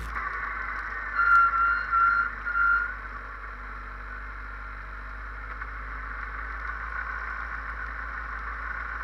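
Race car engine idling steadily, heard from inside the cockpit, with three short high-pitched beeps a little over a second in.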